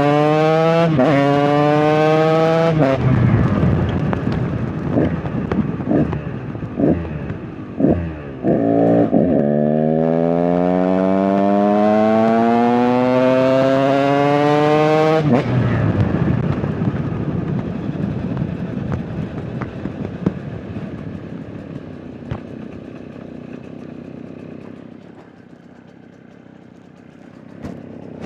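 KTM EXC 125 two-stroke dirt bike engine pulling up through the revs, then a few short throttle blips, then a second long climb in pitch. After that it comes off the throttle to a rough, quieter running that fades near the end. The rider says the bike is not running well.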